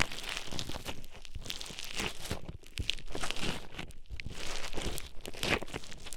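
Play Foam beads being squished and mixed inside an ear-shaped ASMR microphone: a dense, irregular crackling and crunching that swells and fades about once a second.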